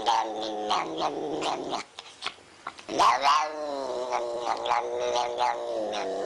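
Cat yowling in two long, drawn-out calls, the second starting about three seconds in after a short pause.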